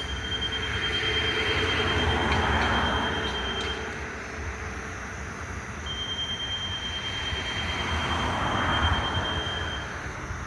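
Freight train cars rolling past with a steady low rumble of wheels on rail, swelling and easing as the cars go by. A high, steady wheel squeal sounds for the first few seconds and again in the second half.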